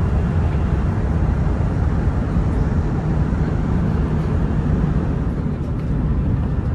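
Steady low rumble and rushing noise of a high-speed train running, heard from inside the passenger cabin.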